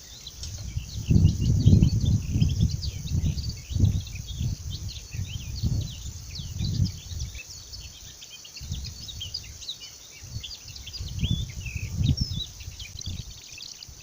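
Many small birds chirping and singing at once, a dense spring chorus. Loud, irregular low gusts of wind buffet the microphone, strongest about a second in and again near the end.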